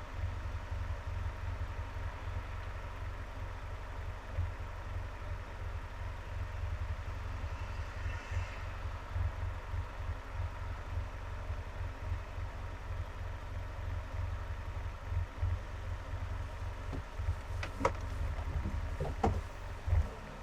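Car driving in traffic: a steady low rumble of road and engine noise, with a faint passing hiss about eight seconds in and a few sharp knocks or rattles near the end.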